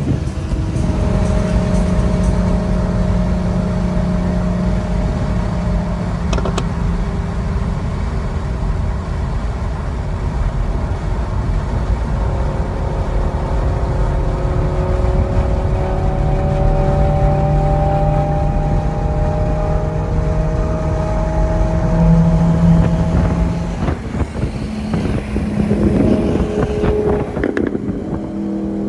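Straight-piped Audi R8 V10 exhaust at steady cruising revs, its note rising slowly in pitch through the middle of the stretch. Near the end the revs change and the sound becomes rougher for a few seconds.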